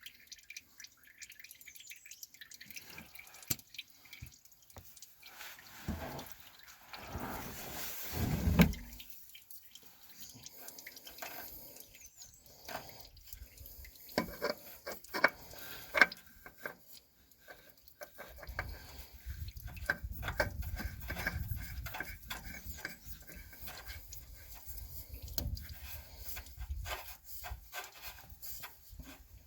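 Engine oil dripping into a drain pan under the truck, with scattered clicks and knocks of handling as a new oil filter is fitted. There is a louder swell about eight seconds in and a low rumble through the second half.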